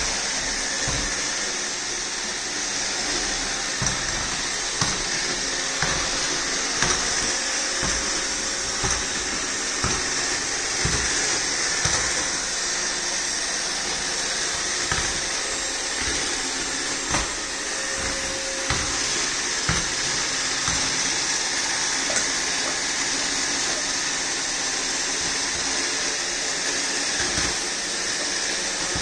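iRobot Roomba 614 robot vacuum running steadily with a high whirring hiss, with occasional short knocks scattered through.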